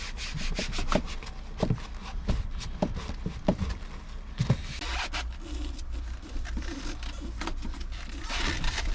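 Hand wiping and scrubbing the inside of a truck cab's fridge, in short irregular rubbing strokes with light knocks, over a steady low hum.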